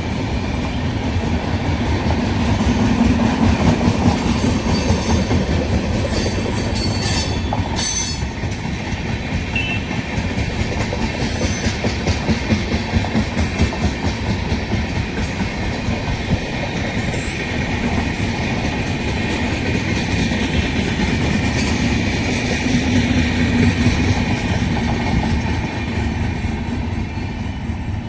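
Indian Railways train passing close by, its wheels clattering steadily over the rail joints, with a few sharp metallic clanks about seven seconds in.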